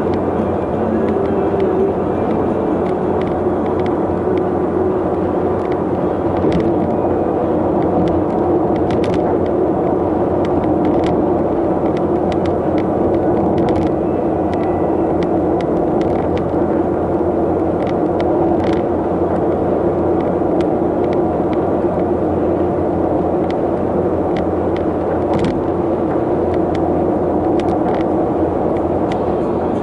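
Steady drone of a vehicle travelling on a road, a constant hum with road noise and a few faint clicks.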